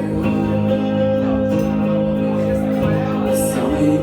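Live band playing the instrumental intro of a rock song, with sustained chords.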